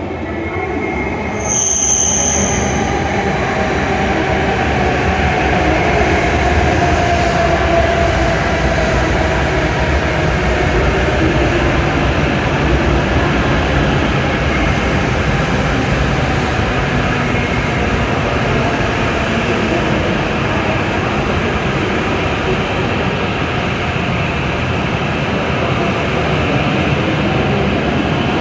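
E7 series Shinkansen trainset pulling into a platform and slowing: a steady rumble and rush with a whine that slowly falls in pitch as it slows. There is a brief high tone about two seconds in.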